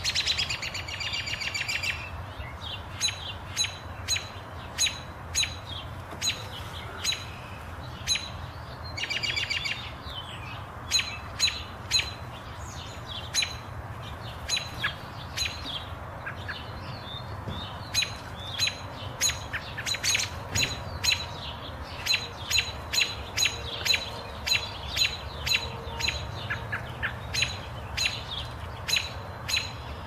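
Birds chirping: a rapid buzzy trill at the start and again about nine seconds in, then a long series of short, sharp chirps, one or two a second, sometimes in quick runs.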